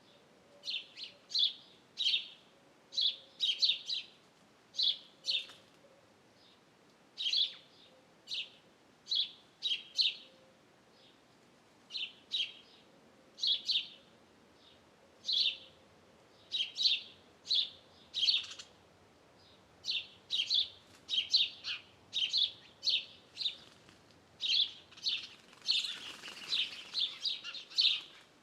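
Small birds chirping: short, high chirps repeated in quick clusters, with brief gaps between the clusters. A short rush of noise comes near the end.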